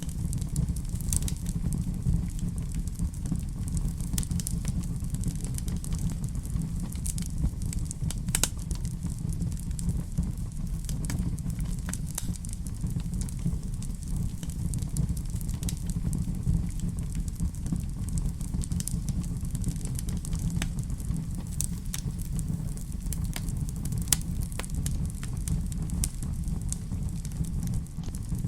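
Wood fire burning in a fireplace: a steady low rumble of flames with frequent small crackles and occasional sharper pops.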